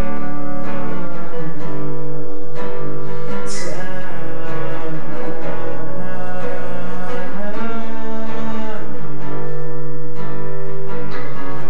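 Instrumental break in a live song: strummed acoustic guitar with long held low notes underneath.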